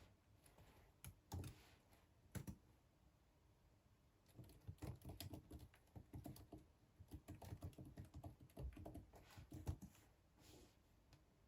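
Soft typing on a computer keyboard: a few separate key taps at first, then a quick run of typing that stops about a second before the end.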